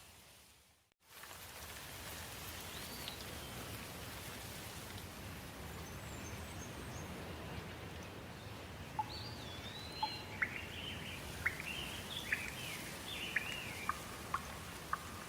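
Steady hiss of falling rain with songbirds calling over it: a few whistled notes early on, then from about the middle a run of quick chirps and sliding whistles. About a second in, the sound fades almost to nothing for a moment and then comes straight back.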